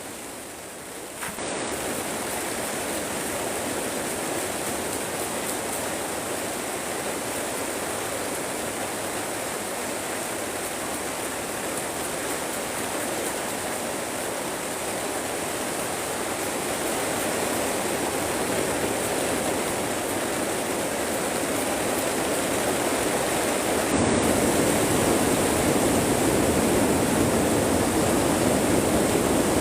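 Heavy rain drumming on the plastic covering of a greenhouse high tunnel: a steady, even rushing hiss. It swells about a second in and suddenly gets heavier late on.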